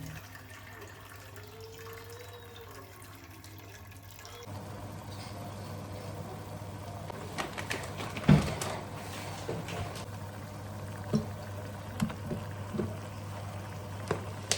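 Water running steadily, starting about four seconds in, with several sharp knocks and clinks of cookware, the loudest a little past the middle.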